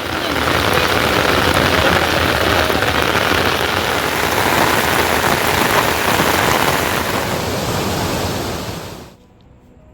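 Rain pouring down steadily as a dense, even hiss, falling away quickly about nine seconds in.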